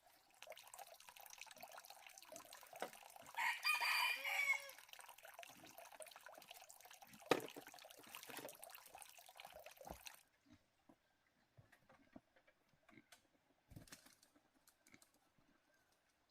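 A rooster crows once, a call of about a second with a bending pitch, over a steady hiss. A sharp click comes a few seconds later. The hiss cuts off abruptly about ten seconds in, leaving only faint scattered clicks.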